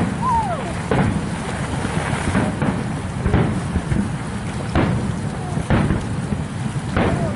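Fireworks exploding: a string of loud booms about one to one and a half seconds apart, over a steady low rumble of background noise.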